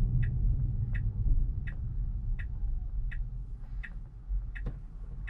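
Tesla turn-signal indicator ticking steadily, about three ticks every two seconds, over the low rumble of road noise in the cabin. The rumble fades as the car slows for the right turn.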